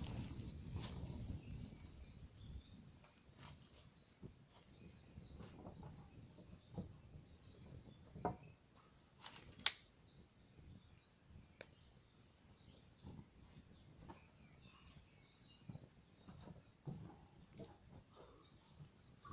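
Wood bonfire crackling quietly with scattered sharp pops, the loudest about halfway through, while small birds chirp in the background. A low rumble dies away in the first couple of seconds.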